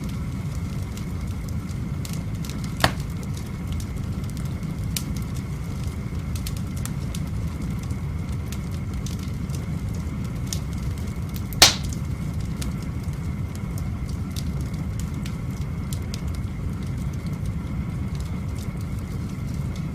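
Wood fire burning in a fireplace, crackling with scattered sharp pops, the loudest about three and twelve seconds in, over a steady low rumble.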